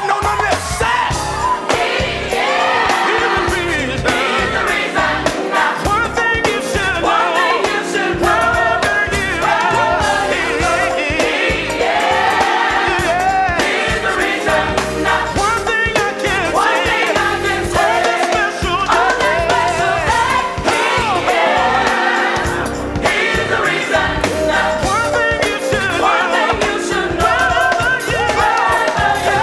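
A song sung by several voices together over instrumental backing.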